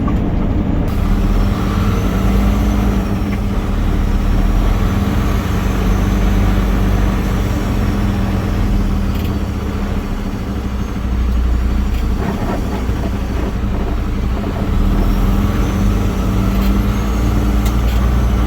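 Peterbilt 389 semi truck's diesel engine running steadily under a low rumble, with a slight dip in level about ten seconds in.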